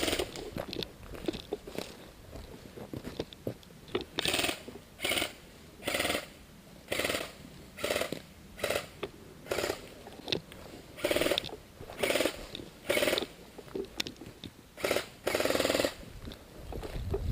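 Electric airsoft gun firing a string of short full-auto bursts, each a fraction of a second of gearbox whir, about one a second, with one longer burst near the end.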